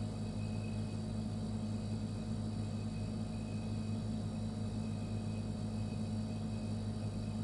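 Refrigerator running: a steady low hum with a faint high whine above it, unchanging throughout.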